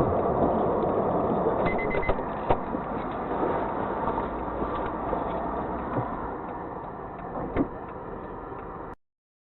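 Steady engine and road noise of a car driving, slowly getting quieter, with a few sharp knocks; it cuts off suddenly near the end.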